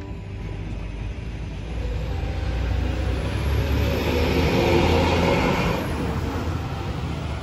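A motor vehicle passing close by: its rushing engine and road noise swells to a peak about five seconds in, then fades.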